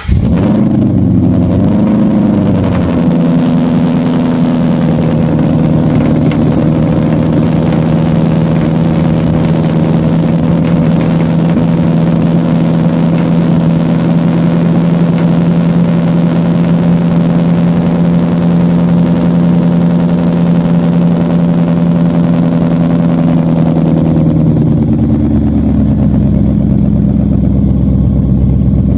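2014 Ford Mustang with a catless Pypes exhaust, very loud, idling just after starting: the revs flare and waver for the first few seconds, hold at a steady fast idle, then drop to a lower, deeper idle about 24 seconds in.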